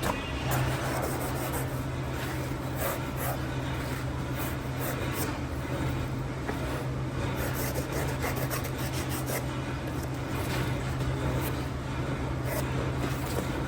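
Workshop noise: a steady low machine hum under irregular scraping and light clicks of metal being worked.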